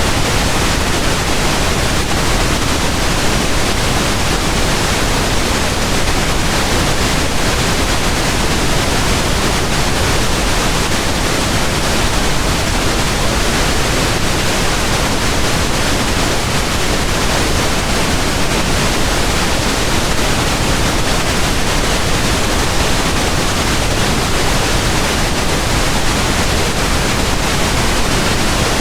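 Pink noise: a steady, even hiss spread across all frequencies, unchanging throughout.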